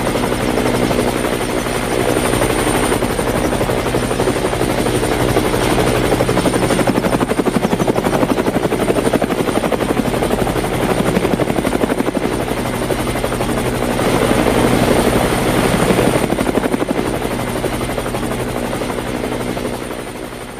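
Helicopter sound: a steady engine whine with rapid, even rotor chop, fading out near the end.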